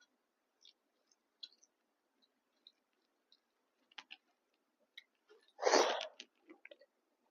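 Close-miked eating sounds: scattered small mouth and utensil clicks, with one louder, noisy half-second sound about six seconds in.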